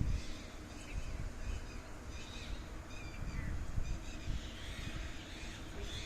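Several birds chirping and calling in short, repeated notes over a low background rumble.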